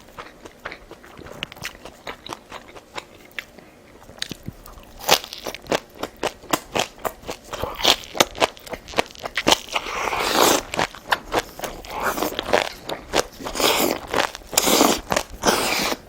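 Close-miked eating: a person biting, crunching and chewing food with many sharp mouth clicks and smacks. It is sparse and fairly soft at first, then from about five seconds in becomes dense and louder, with a few longer noisy stretches of crunching or slurping near the end.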